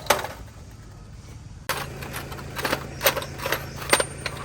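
Metal parts or tools being handled on a bench: sharp metallic clinks and knocks, a couple at first, then a quick run of them over a steady low hum that starts abruptly a little under two seconds in.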